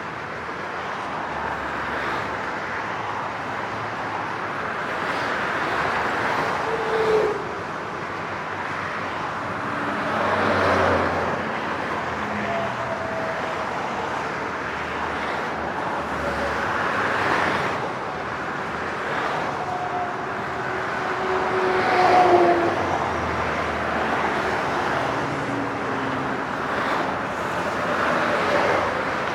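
Highway traffic: a steady hiss of tyres and engines, with single vehicles swelling up and fading as they pass every few seconds, some with a short falling engine tone. The loudest pass comes about three quarters of the way through.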